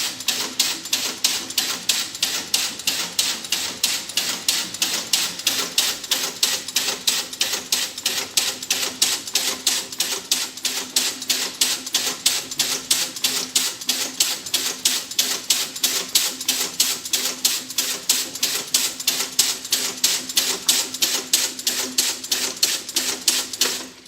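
Rapid, even mechanical clicking, about four clicks a second, over a faint steady hum. It stops suddenly at the end.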